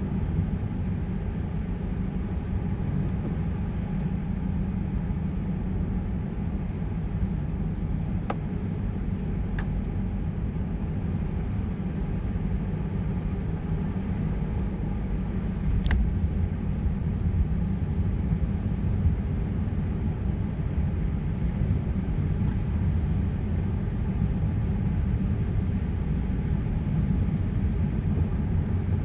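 A car driving with a steady low rumble of road and engine noise, and a few faint ticks.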